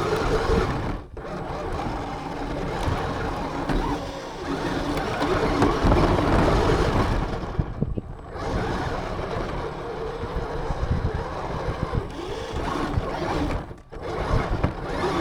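RC car running, heard from a camera mounted on it: a motor buzzing under a dense rush of driving noise. The sound drops away briefly about a second in, again near eight seconds and near fourteen seconds.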